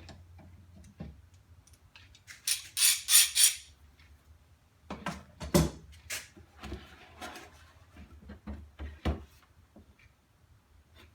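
Hard objects being handled: scattered clicks and knocks, a loud burst of clinking rattles about two and a half seconds in, and a few dull thumps later on.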